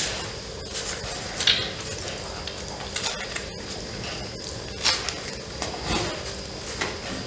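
Close-miked chewing and mouth sounds of a man eating a ham, mozzarella and salad sandwich, in irregular bursts over a steady background hiss.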